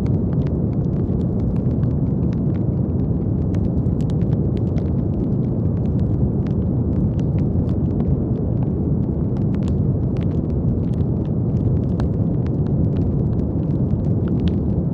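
Steady brown noise, a deep, even rumbling hiss, with faint scattered crackling clicks throughout.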